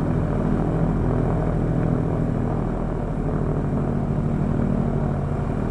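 Douglas A-26B Invader's Pratt & Whitney R-2800 radial engine running steadily on the ground with a rapid even beat, all cylinders firing.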